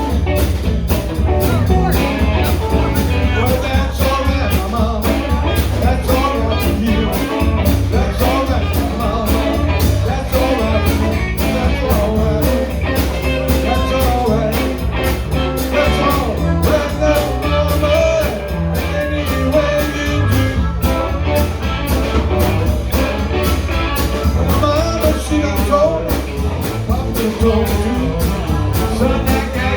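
A live rock-and-roll band playing an instrumental stretch: guitar over a steady bass and drum beat.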